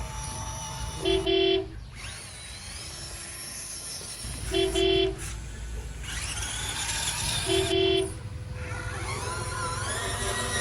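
A vehicle horn honks three times, each honk about half a second long and about three seconds apart. Between the honks a motor sound rises and falls in pitch, like revving.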